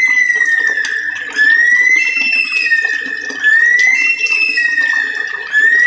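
Songbird calling from a bird-training recording: a long, whistled, high note that rises, holds and then drops, repeated about every two seconds.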